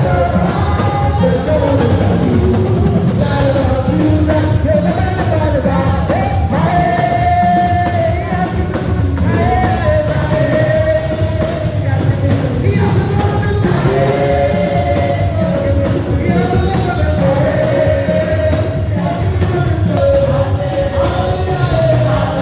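Church worship music: voices singing long held notes over a loud, continuous band accompaniment.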